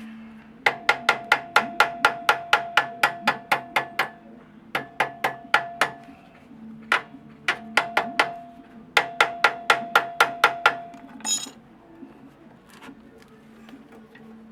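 Hammer blows on ringing metal: quick runs of strikes at about five a second, each leaving a short metallic ring, with brief pauses between the runs.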